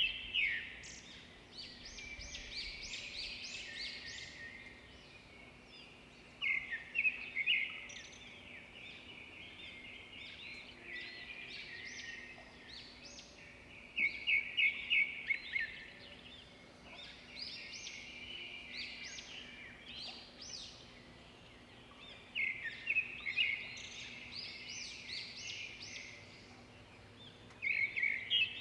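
Songbirds singing: a short, rapid trilled phrase repeats about every seven seconds, with softer chirping in between.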